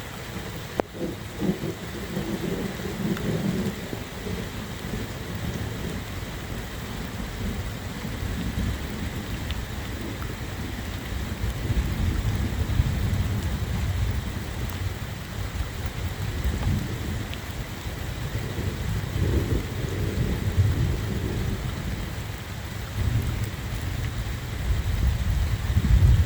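Steady heavy rain, with deep rolling thunder rumbles that swell and fade several times and build again near the end.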